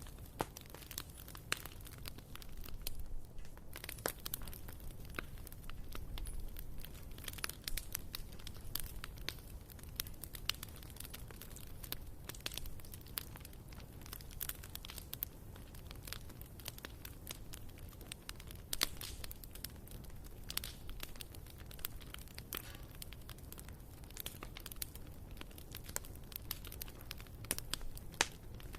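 Wood fire burning in a fireplace, crackling: irregular sharp snaps and pops over a low steady rush of flame.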